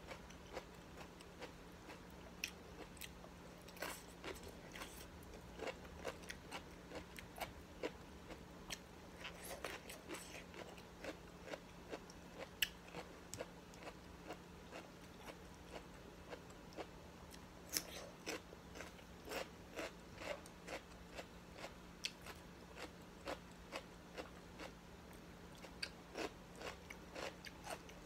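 A person chewing and biting food close to the microphone, with many short, crisp crunches and clicks at an irregular pace. A steady low hum runs underneath.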